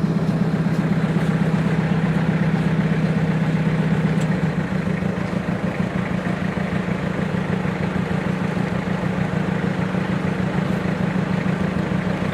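An engine running steadily with a low, even hum; about four and a half seconds in its pitch steps up slightly and it gets a little quieter.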